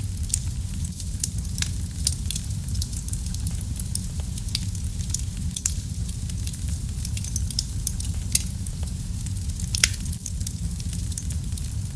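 Wood fire burning in a fireplace: a steady low rumble of flames with frequent sharp crackles and pops, two louder snaps a little past two-thirds of the way through.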